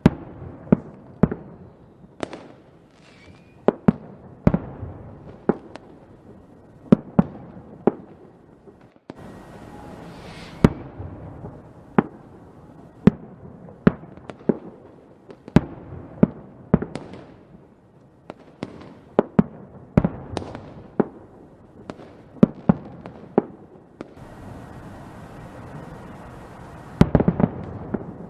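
Fireworks bursting, a few bangs a second with a short rumble after each over a steady crackling hiss, ending in a quick volley of bangs near the end.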